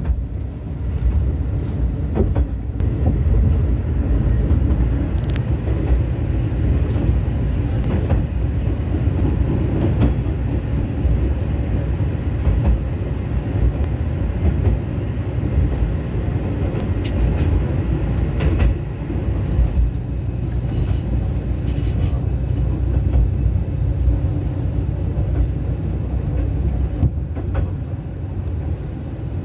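Diesel railcar running along the line, heard from inside at the rear: a steady low rumble of engine and wheels on rail, with scattered clicks of the wheels over rail joints. Part of the run is inside a tunnel.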